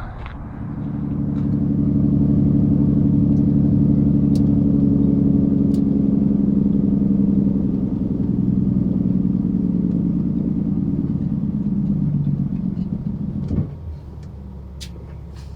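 A large truck engine running, its low hum swelling over the first two seconds, holding steady, then fading away after about eight seconds. A sharp knock near the end, after which a lower rumble continues.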